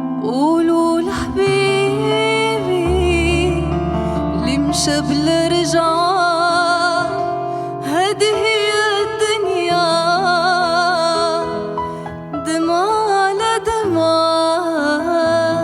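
A woman singing a slow, ornamented song with vibrato over instrumental accompaniment.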